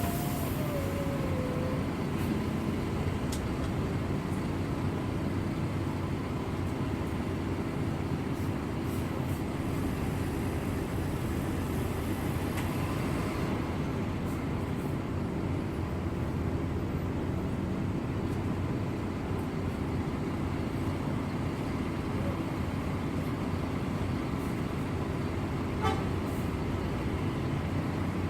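Steady engine and road noise of a coach bus on the move, with a horn-like tone sliding down in pitch at the start.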